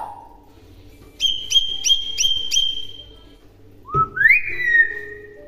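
Hill myna whistling: a held high whistle with five sharp clicks laid over it, then after a short pause a rising whistle that levels off and slowly falls.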